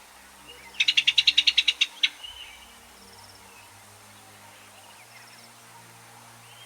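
A bird calling a rapid, even series of about a dozen sharp notes that lasts about a second, starting near the beginning, then faint background.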